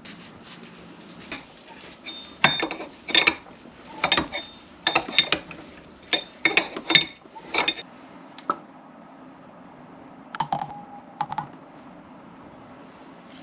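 Irregular clicks and knocks of hard parts being handled, in several short clusters, followed a little after ten seconds in by a brief creak or squeak.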